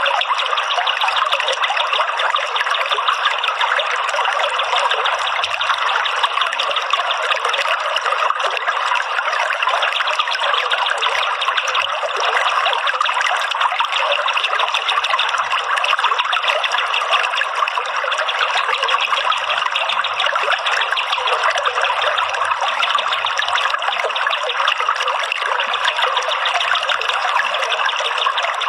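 Water trickling and splashing steadily, a continuous even rush with no pauses.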